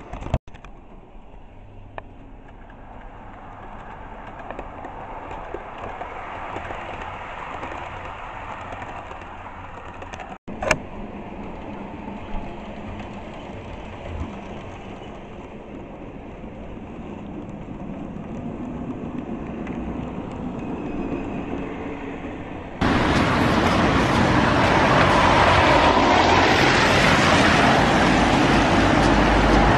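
Road traffic passing, a steady rush of tyres and engines that swells and fades. After an abrupt cut about two-thirds of the way through, the traffic noise is much louder and fuller.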